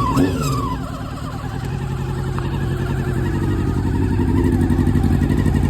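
Suzuki Katana inline-four in a 1988 GSX-R1100 running just after a cold start. The revs fall away in the first second, then it settles into a steady idle that slowly builds.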